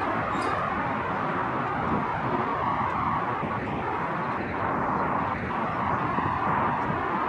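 Steady rolling noise of a freight train of tank cars moving away on the rails, mixed with the hum of road traffic on the overpass.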